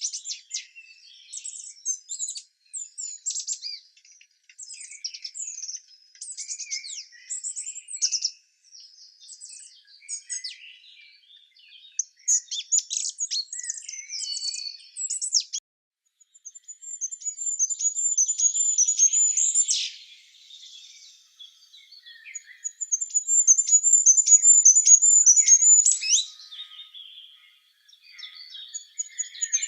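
Songbirds singing and chirping in a quick jumble of short high notes, with a high, rapid trill of about three seconds breaking in twice in the second half.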